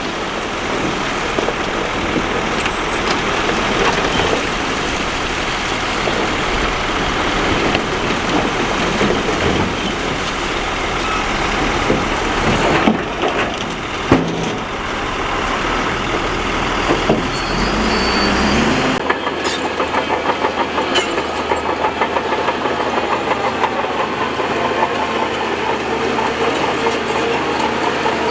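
Heavy earthmoving machinery at work: bulldozer and dump truck engines running, with a couple of sharp knocks about halfway through. About two-thirds in the deep engine rumble drops away, leaving a fast, regular pulsing.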